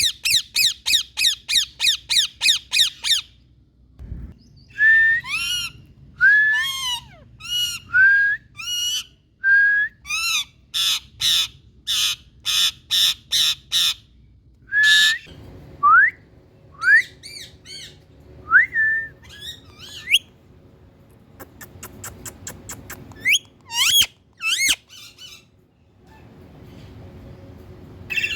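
Indian ringneck parakeet squawking: a fast run of about a dozen harsh calls in the first three seconds, then separate squawks mixed with short rising whistled calls.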